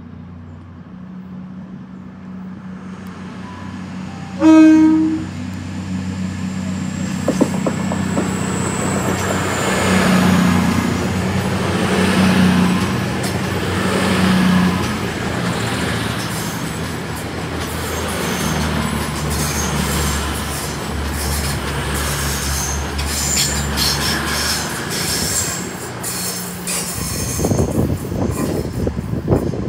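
A train horn gives one short toot about four seconds in. CrossCountry Voyager diesel multiple units follow, their underfloor diesel engines running loudly as a train moves past close by, with a faint high wheel squeal. Near the end come quick clicks of wheels over rail joints as another Voyager comes in.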